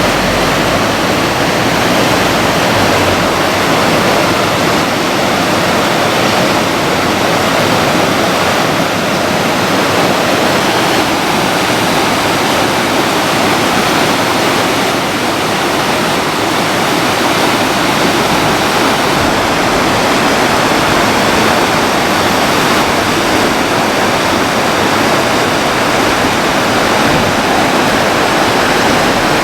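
Steady, loud rush of fast-flowing water, as from a river or torrent swollen by heavy storm rain.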